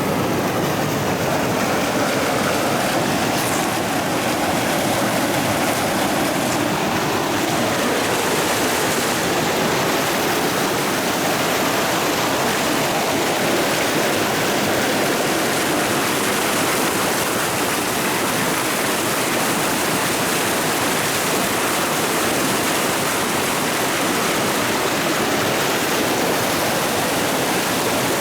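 Rocky forest creek rushing and splashing over stones: a steady, even water rush with no change in level.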